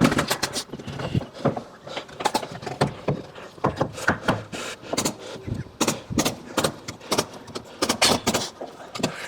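Irregular sharp knocks and bangs of timber wall-framing work, a few impacts a second.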